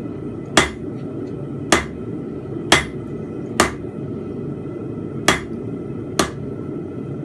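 Blacksmith's hammer striking a steel bar on an anvil: six ringing blows about a second apart, with a short pause midway, over a steady low rumble.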